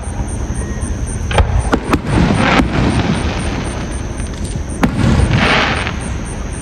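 Fireworks going off: a run of sharp bangs and booms, with two longer noisy bursts, one about two seconds in and one just after five seconds.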